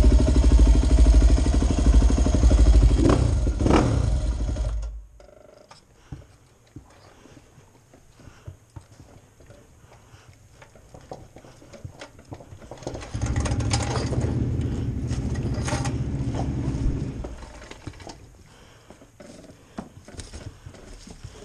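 Husqvarna dirt bike engine running, then shut off abruptly about five seconds in. Small knocks and scrapes follow, and the engine runs again for about four seconds in the middle before stopping.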